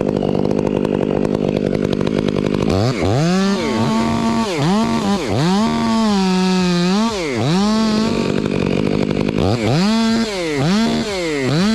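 Two-stroke chainsaw running steadily at high revs, then revved up and down over and over, its pitch rising and falling roughly once a second.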